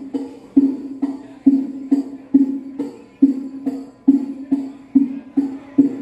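Percussion music played loud through a large sound-system rig under test: a low, pitched drum hit about twice a second in a steady rhythm, with sharp jingling clicks on each beat.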